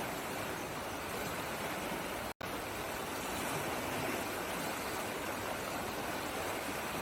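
Steady rush of flowing water, with a split-second dropout to silence a little over two seconds in.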